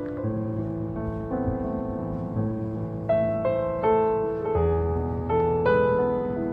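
Slow, gentle solo piano music: a calm melody of single notes over low sustained bass notes.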